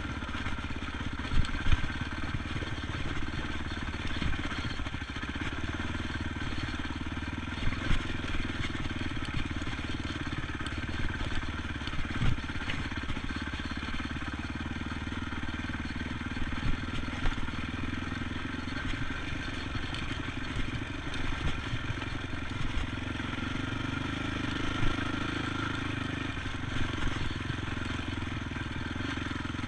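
ATV engine running steadily, its pitch rising a little past the middle, with sharp knocks and clatter now and then.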